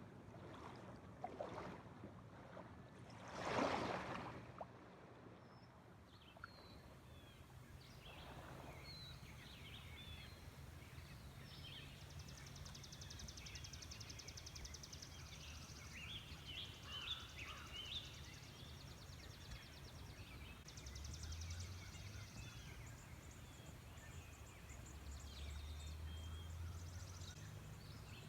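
Wild birds singing in woodland: many short chirps and whistles, with stretches of fast high trilling, over a faint low hum. About three seconds in comes a brief swell of rushing noise, like a gust or a wash of water.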